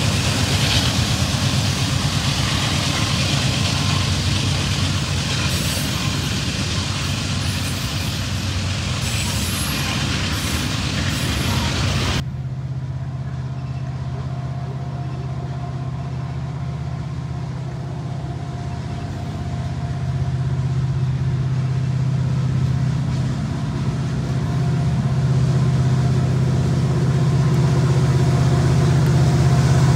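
A Norfolk Southern freight train rolling past close by, its wheels running on the rails behind the receding lead ET44 locomotives. About twelve seconds in, this cuts to a distant approaching diesel locomotive whose engine runs steadily and grows louder as it nears.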